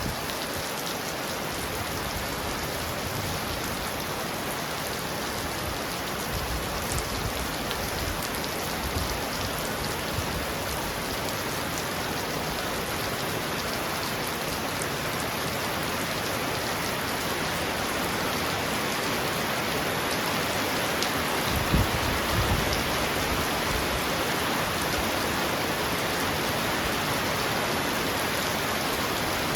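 Heavy rain falling steadily on a roof, a dense even hiss. One brief low thump about two-thirds of the way through.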